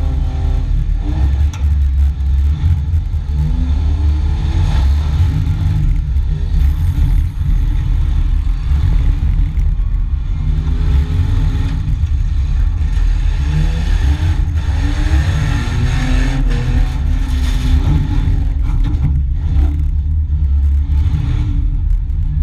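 A demolition derby car's engine, heard from inside its stripped cabin, revving up and down over and over as the car manoeuvres. Body panels rattle throughout, with a few sharp knocks.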